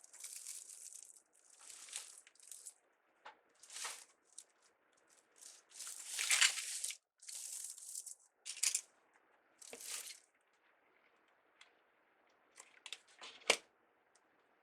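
Crinkly rustling of deco mesh and ribbon being handled on a wreath, in irregular bursts of a second or so, with a few sharp clicks; the loudest click comes near the end.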